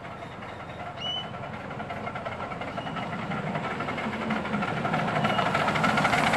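Miniature railway train approaching, its running sound growing steadily louder.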